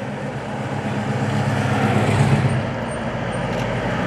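A car engine running, growing louder to a peak about halfway through and then easing off a little.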